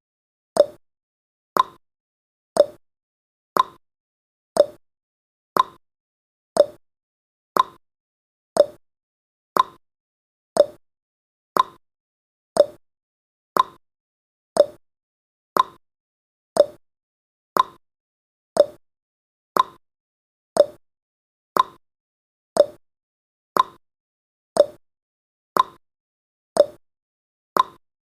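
Countdown timer's ticking-clock sound effect: one sharp tick each second, alternating lower and higher like a clock's tick-tock.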